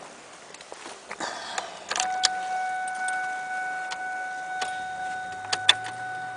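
Keys jangling and clicking at a 2010 Ford Ranger's ignition, with a steady electronic warning tone from the dashboard coming on about two seconds in and holding. There are several sharp clicks, and no engine running yet.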